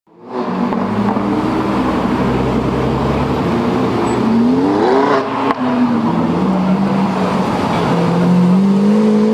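Lamborghini engine running, rising in pitch as it accelerates about four to five seconds in, with a brief break about halfway, then running steadily at a higher pitch.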